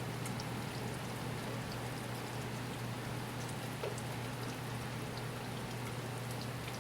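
Steady rain falling outside an open window, with a few faint scattered drip ticks over a low steady hum.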